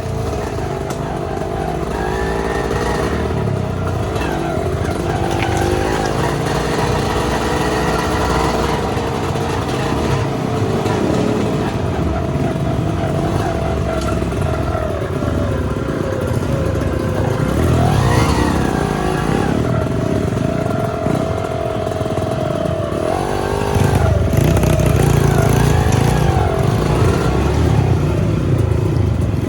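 Off-road trail motorcycle engine working at low speed, its revs rising and falling as the throttle is worked, with sharp blips about 18 s in and a louder, harder-revving spell from about 24 s in.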